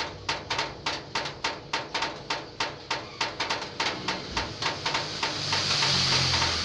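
Rainwater dripping onto a corrugated zinc roof sheet, a steady tapping of about four to five drops a second with a slight metallic ring, very rhythmic. A hiss swells in over the last couple of seconds.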